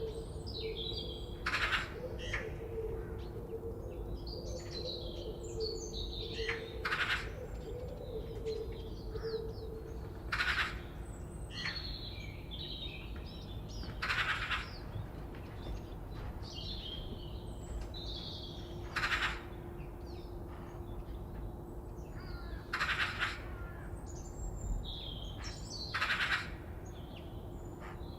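Forest bird chorus: many small birds chirping and twittering throughout, with a louder, short, harsh call about every three to five seconds, seven in all. A faint steady hum lies underneath.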